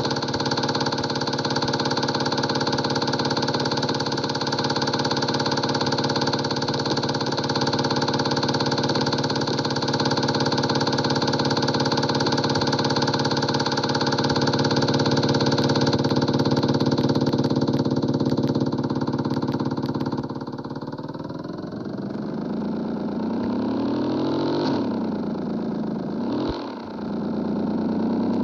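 160 cc motorcycle engine running through a bare exhaust pipe with the muffler removed, a steady, even note for most of the time. About two-thirds of the way through the note drops lower, followed by two quick throttle blips, each rising and falling.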